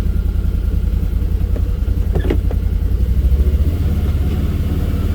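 A vehicle's engine running at a steady low drone while driving, picking up slightly about three seconds in, with a few light knocks just past two seconds.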